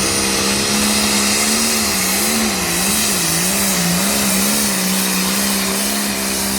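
Tractor engine running hard under load on a pull, one steady engine note whose pitch wavers up and down for a few seconds in the middle as the revs rise and sag under the load.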